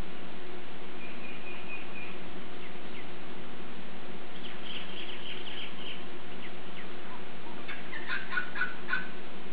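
Noisy miners calling: short runs of sharp high chirps through the middle, then a louder, rapid run of about five notes near the end, over a steady low hum.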